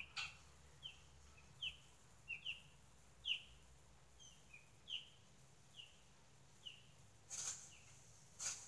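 A small bird chirping over and over, short falling chirps at an uneven pace, faint, with a couple of brief clicks near the end.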